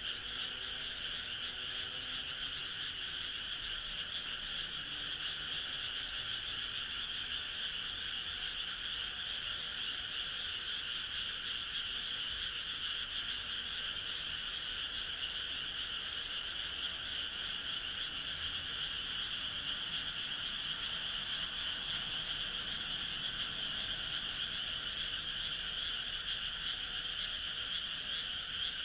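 Dense frog chorus: many frogs calling at once in a steady, even wash of high-pitched trilling.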